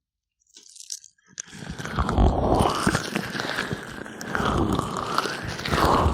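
Gloved fingers massaging an oiled microphone ear: after a few faint taps, a close, dense rubbing starts about a second and a half in and runs in slow strokes, each sweeping up and down in pitch.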